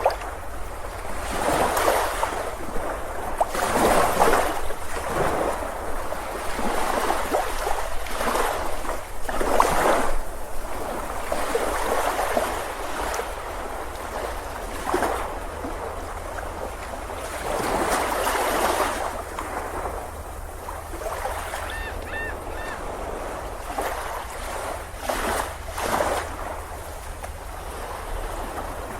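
Ocean surf on a beach: waves break and wash in, swelling and fading every couple of seconds over a steady low rumble. A brief, faint chirp-like call sounds about two-thirds of the way through.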